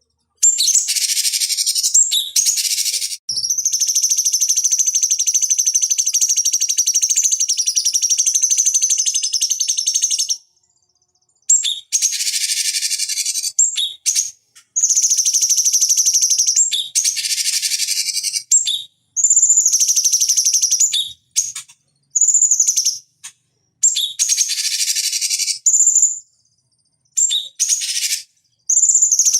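Cucak cungkok bird singing in rapid, high-pitched chattering phrases. A long unbroken phrase runs for several seconds near the start, then the song comes in shorter phrases of a second or two with brief pauses.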